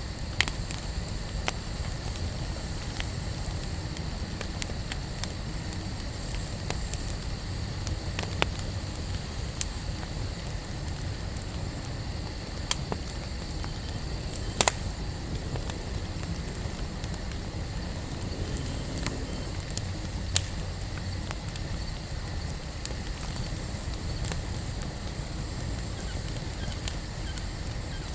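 Wood fire burning steadily with a low rustle of flame and scattered sharp crackles and pops every few seconds.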